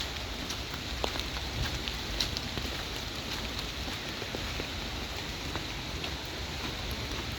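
Rain falling steadily, with scattered drops ticking on surfaces.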